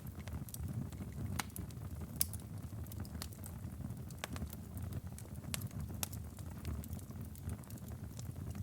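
Wood fire crackling in a fireplace: irregular sharp pops and snaps, several a second, a couple standing out louder about one and two seconds in, over a steady low rumble of the burning.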